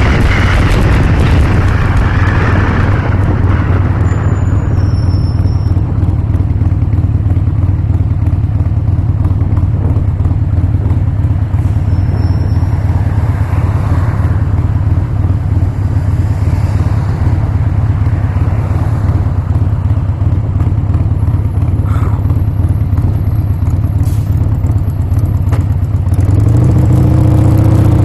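Harley-Davidson Sportster's air-cooled V-twin engine running steadily under way, with rushing wind noise that fades over the first few seconds. Near the end the engine revs up, its pitch rising.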